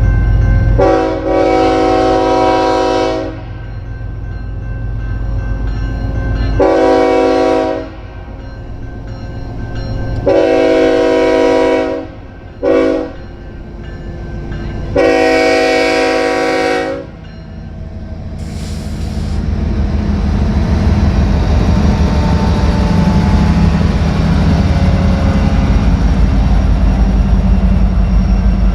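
Freight diesel locomotive's multi-chime air horn sounding five blasts: one long, then long, long, short, long, the grade-crossing signal, over the low drone of its engine. Then the train passes, with a steady, growing rumble and clatter of wheels on the rails.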